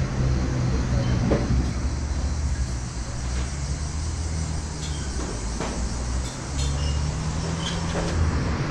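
Street traffic noise: a motor vehicle engine running close by, a low steady hum, with a few faint clicks and knocks over it.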